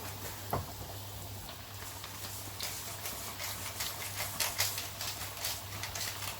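Breaded chicken nuggets deep-frying in hot oil in a wok, sizzling with many short crackling pops that grow busier after a couple of seconds. A single knock about half a second in, over a steady low hum.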